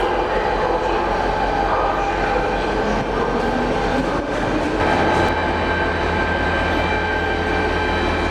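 DSB diesel-electric locomotive running at a standstill: a steady engine drone with several held tones, its low hum firming up about five seconds in.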